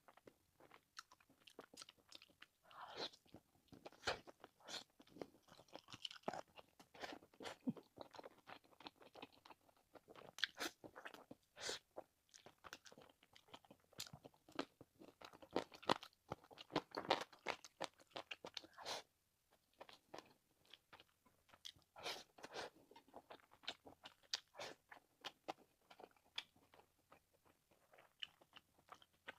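A person eating close to the microphone: irregular chewing, biting and crunching, with many short crisp mouth clicks and a brief pause about two-thirds of the way through.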